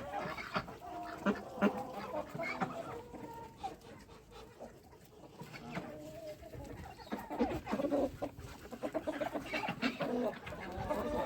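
Several chickens clucking on and off, many short calls overlapping, dying down for a couple of seconds mid-way and then building again.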